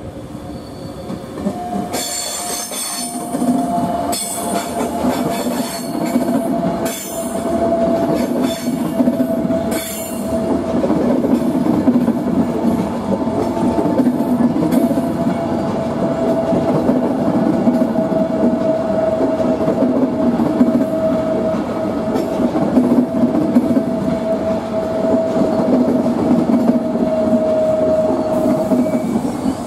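Passenger train rolling past close by, its wheels rumbling and clacking over the rail joints and points, with a steady wheel squeal that sets in about two seconds in and holds almost to the end, sinking slightly in pitch.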